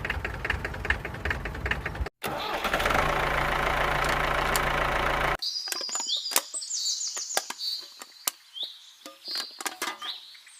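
Small motor of a homemade mini tractor running, broken by a cut about two seconds in and then running with a steady hum until it stops abruptly about halfway through. Birds chirp with scattered clicks for the rest.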